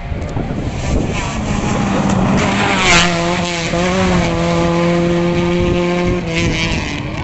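Rally car passing at full throttle, its engine note peaking and dropping in pitch as it goes by about three seconds in, then held steady as it pulls away and fades near the end.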